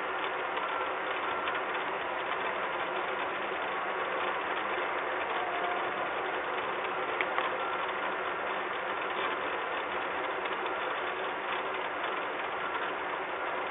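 Steady rain falling on a metal nest box and its grating platform, a continuous hiss with many small ticks, heard through a webcam's narrow-band microphone.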